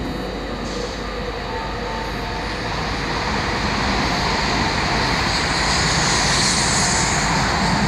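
A train running past, its noise building from about three seconds in, with a hiss that peaks about six to seven seconds in.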